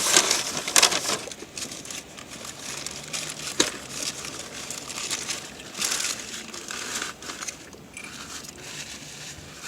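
Irregular crinkling and rustling of paper fast-food wrapping, handled in bursts, with one sharp click about three and a half seconds in.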